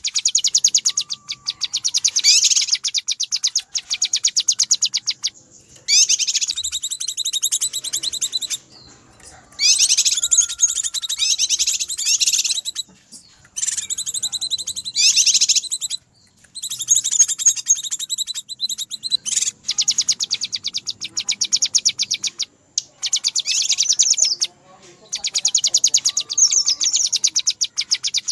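Cucak kinoi calling in a noisy, agitated way: very rapid, dense runs of high chirps in bursts of several seconds, broken by short pauses. It is a lure call meant to draw wild kinoi in.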